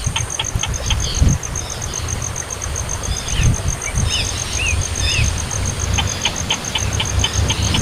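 A baby bird's short chirps: runs of quick clicking cheeps at the start and near the end, with a few short downward-curving chirps in the middle. An insect's steady, high, pulsing trill runs underneath, over a low rumble.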